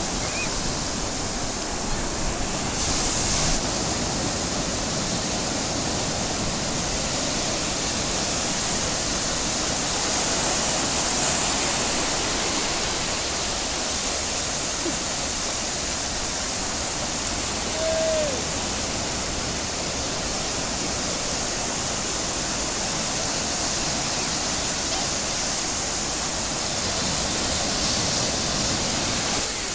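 Steady rushing wash of ocean surf breaking on a beach, an even hiss that barely changes in level.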